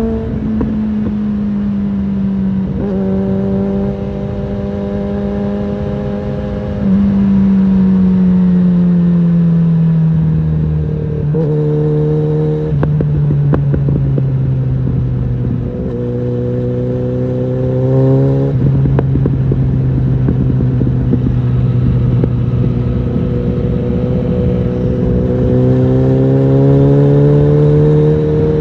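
Suzuki GSF650 Bandit's inline-four engine, fitted with an aftermarket Storm exhaust, running on the move. Its pitch rises and falls through several gear changes, dropping off in the middle and revving up again near the end.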